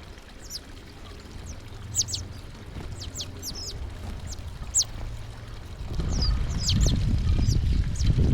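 Small birds at a feeder giving many short, high chirps that sweep downward. About six seconds in, a louder low rumbling noise sets in under them.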